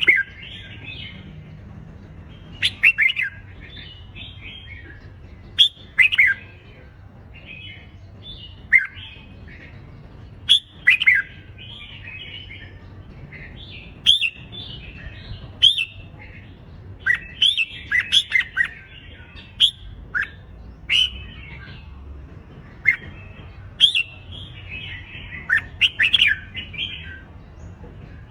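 Red-whiskered bulbuls singing contest song: short, bright whistled phrases with quick up-and-down glides, repeated every second or two, the kind of fighting song used to fire up young or reluctant bulbuls into singing.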